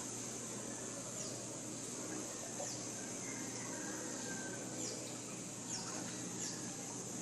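Forest ambience: a steady high hiss of insects with about six short, high falling bird chirps scattered through it, over a low steady hum.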